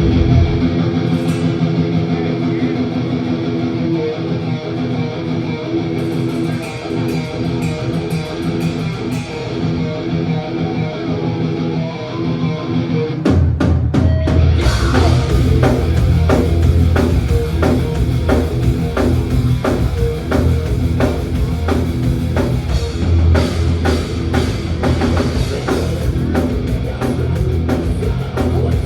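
Live thrash metal band opening a song: a distorted electric guitar riff plays alone with light cymbal taps, then a little under halfway the drums and bass guitar crash in and the full band drives on at a fast tempo.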